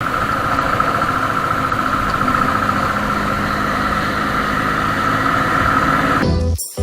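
Royal Enfield Thunderbird 350's single-cylinder engine running steadily, with a constant high whine over it. Music with a beat cuts in near the end.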